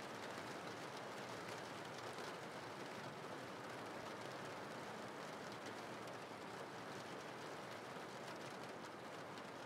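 Steady, faint rain: an even hiss of rainfall with scattered drops.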